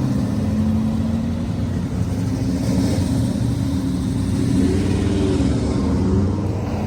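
Car engine running at low revs, its pitch drifting a little up and down.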